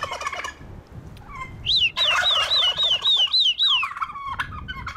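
Birds calling in outdoor pens: a turkey gobbles at the very start, then a bird gives a quick run of high, rising-and-falling calls, about four a second for two seconds, with a few more calls near the end.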